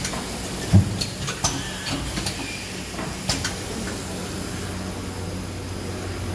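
Automatic box shrink-wrapping machine running: a steady low hum with a thump about a second in and several sharp clicks and knocks from its moving parts.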